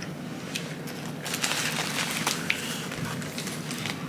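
Crinkling and crackling with scattered sharp clicks, thickest from about a second in to the middle, as fast-food wrappers and food are handled at close range.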